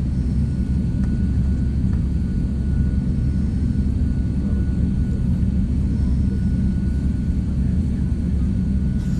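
Steady low rumble of jet airliner engines, with a thin steady whine above it.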